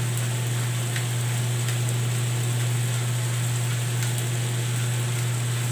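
Chicken and vegetables sizzling in a wok over a gas burner, an even frying hiss over a steady low hum that is the loudest sound, with a few faint ticks.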